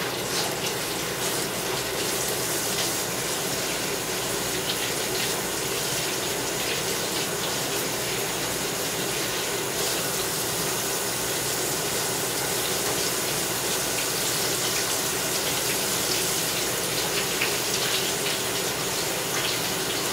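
Breaded green tomato slices frying in hot grease in a pan: a steady sizzle with scattered small crackles.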